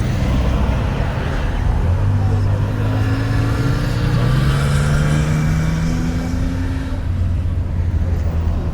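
Car engine running, its pitch climbing slowly for a few seconds before settling into a steady low note.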